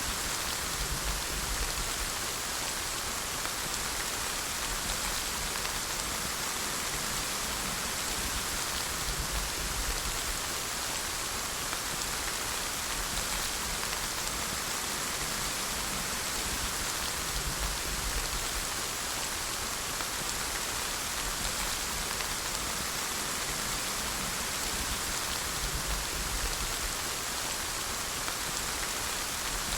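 Steady rain falling and pattering on surfaces, an even hiss with occasional low rumbles underneath.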